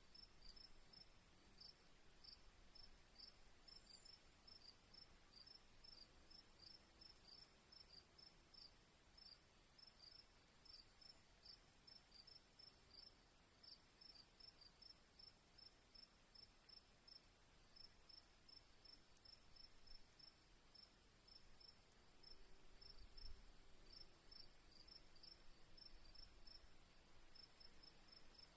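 Crickets chirping faintly: a steady high-pitched trill underneath, with a second cricket's short chirps repeating about three times a second and pausing briefly now and then.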